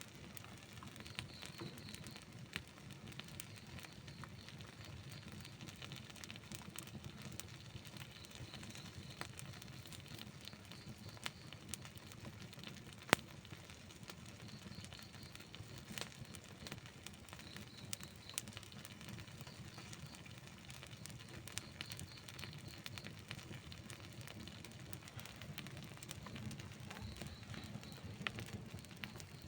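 Wood campfire burning: a steady low rush of flame with scattered crackles and pops throughout, the sharpest pop about 13 seconds in.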